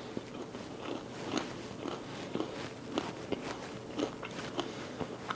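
A person chewing a mouthful of crispy bacon close to the microphone: soft, irregular crunches, about two a second.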